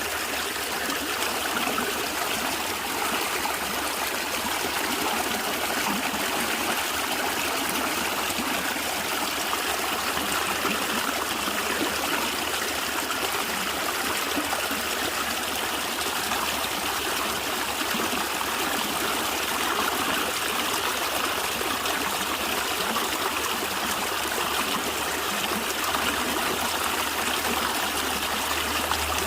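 Stream of water flowing and gurgling, steady and unbroken.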